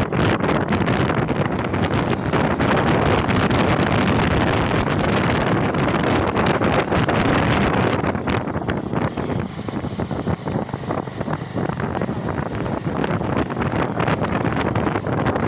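Heavy wind buffeting on the microphone, a dense rushing noise that eases somewhat about eight seconds in.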